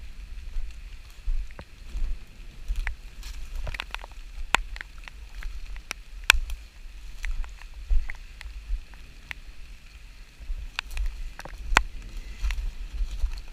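Raindrops tapping close to the microphone in irregular sharp clicks, over a steady low wind rumble.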